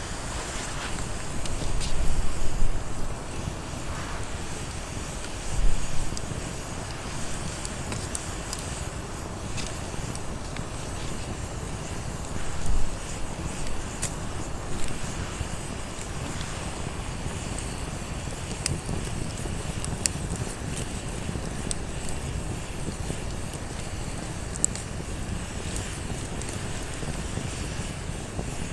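Steady outdoor ambience with low wind rumble on the microphone, a few louder low thumps, and scattered short sharp crackles.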